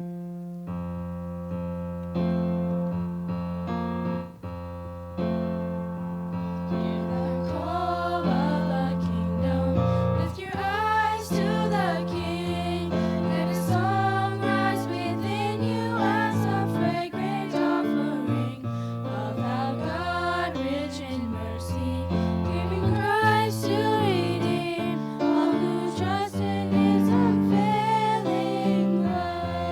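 Electric keyboard music: held low chords start suddenly, and a wavering melody line comes in above them about eight seconds in.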